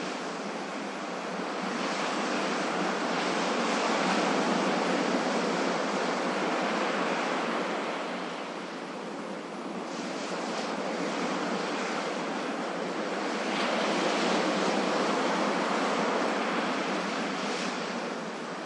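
Ocean surf: a continuous rush of breaking and washing waves that swells and eases in slow surges about nine seconds apart.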